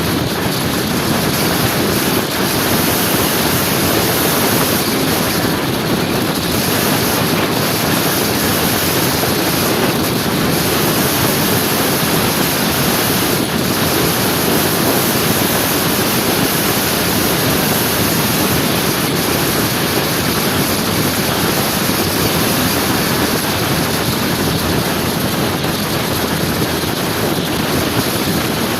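Steady loud rush of wind over the microphone with road noise while riding a motor scooter.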